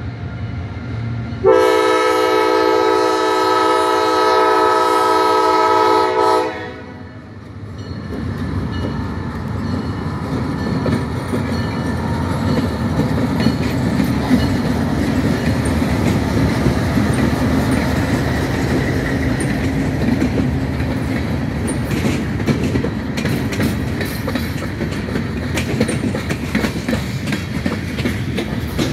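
Freight locomotive air horn sounding one long chord blast of about five seconds, near the start. Then the locomotives and train roll by with a steady engine rumble and wheel noise, and rhythmic clicking of wheels over rail joints grows in the later part.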